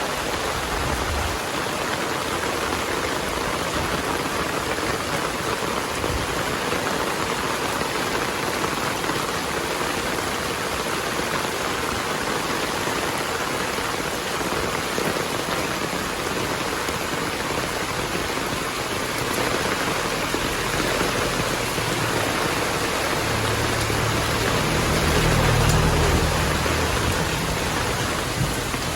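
Heavy rain falling steadily as an even hiss. In the second half a low rumble of thunder builds and swells, loudest a few seconds before the end.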